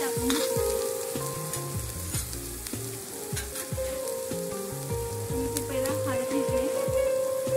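Garlic and chopped greens sizzling in hot oil in a wok, a steady hiss with a spoon scraping the pan near the start. A background music tune of held, stepping notes runs underneath.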